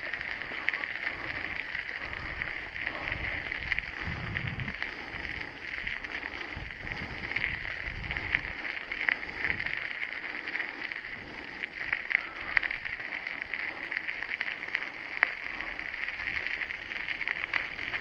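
Bicycle ride: scattered small clicks and rattles and irregular low rumbles of wind on the microphone, over a steady high-pitched hiss.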